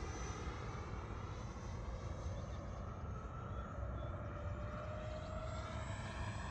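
FMS Super Scorpion 90 mm electric ducted-fan jet on 8S power in flight, its fan giving a steady whine whose pitch drifts slightly upward partway through.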